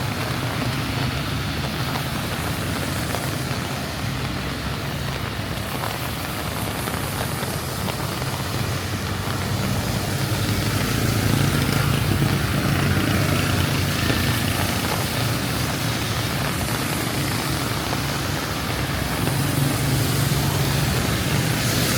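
Steady heavy rain with road traffic: vehicle engines rumbling low and tyres hissing on the wet road, the rumble swelling a little as vehicles pass about halfway through and again near the end.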